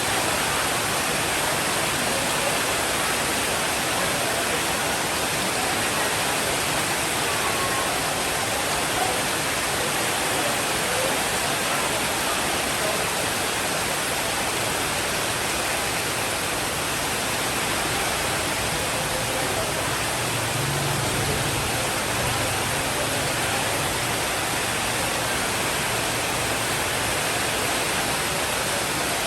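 Steady rainfall: a dense, even hiss with no distinct drops or breaks.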